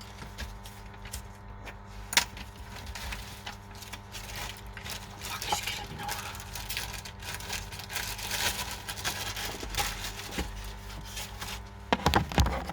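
Small objects handled on a repair bench: scattered clicks and rustling, a sharp click about two seconds in and a cluster of knocks near the end, over a steady electrical hum.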